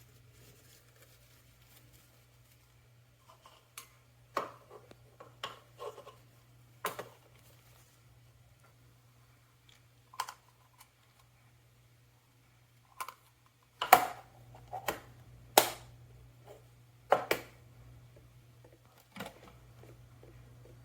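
Scattered clicks and knocks of things being handled, about a dozen, sparse at first and loudest in a cluster a little past the middle, over a faint low steady hum.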